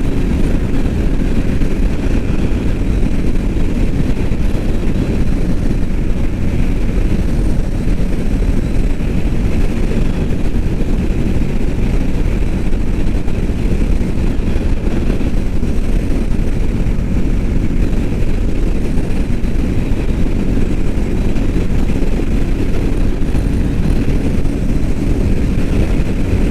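Royal Enfield Meteor 350's single-cylinder engine running steadily at highway speed, near full throttle, heard from the rider's seat with a dense, unchanging rush of road noise.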